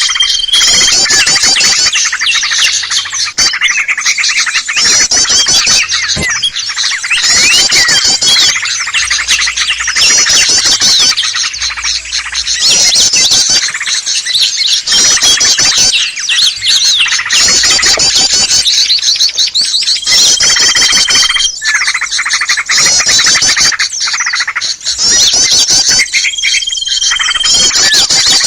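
Loud bird-lure recording of many small songbirds calling at once: dense, overlapping chirps and trills in a repeating pattern. A level, high whistled note about a second long sounds near the start and twice more in the last third.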